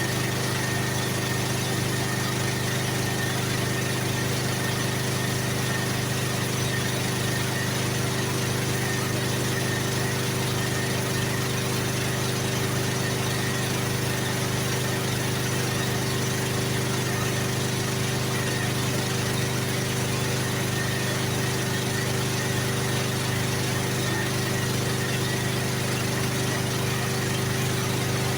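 A small motor running steadily, an even mechanical hum that holds the same pitch and level throughout.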